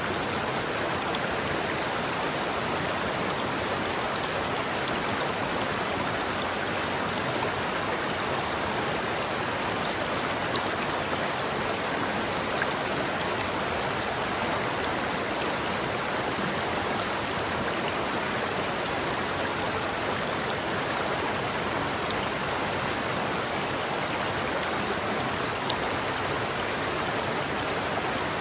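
A river's water rushing and babbling in a steady, unbroken wash.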